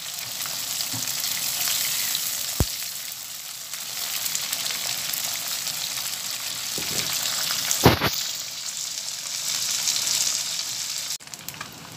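Shrimp frying in hot oil in a wok, a steady sizzle, stirred with a silicone spatula. There is a short click about two and a half seconds in and a sharp knock about eight seconds in.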